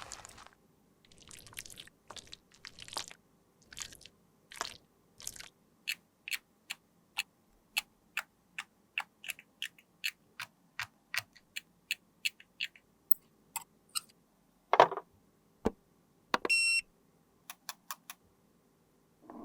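Close-up small clicks and taps from makeup being handled and worked, coming regularly about twice a second through the middle, after a few short scraping sounds. A louder knock comes near the end, followed by a brief electronic beep.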